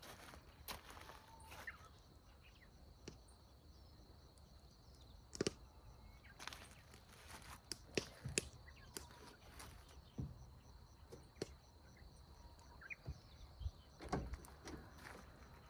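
Bonfire crackling faintly, with irregular sharp pops and snaps, over a steady high insect trill.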